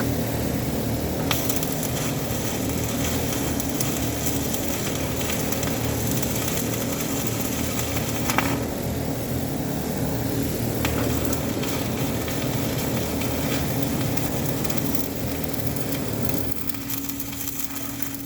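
Electric arc welding: a steady crackling sizzle from the arc over a low machine hum. The crackle sets in about a second in, and the low hum drops off near the end.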